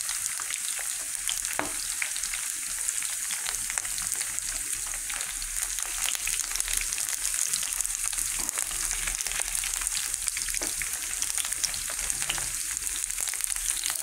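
Chicken pieces frying in hot oil in a nonstick pan: a steady sizzle full of small crackling pops. Now and then a slotted spatula scrapes the pan as it turns the pieces.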